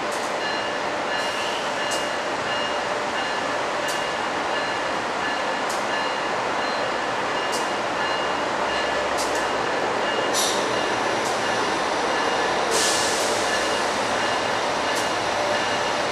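Train slowly approaching a station platform: a steady rumbling noise with scattered sharp clicks and a high ringing tone that sounds on and off in short repeated pulses. Two brief bursts of hiss come about ten and thirteen seconds in.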